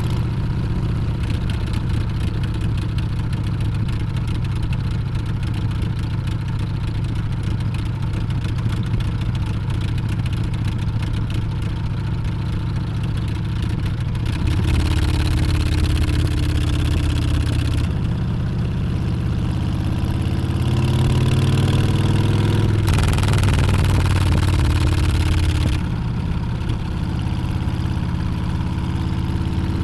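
Harley-Davidson Street Bob's Milwaukee-Eight 114 V-twin running under way, a steady low drone that gets louder about halfway through. Around two-thirds of the way in the pitch climbs as the engine revs up, then it shifts and settles lower near the end.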